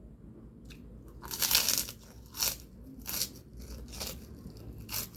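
Close-miked eating: a series of crunching bites and chews, about six in all, the loudest and longest about a second and a half in.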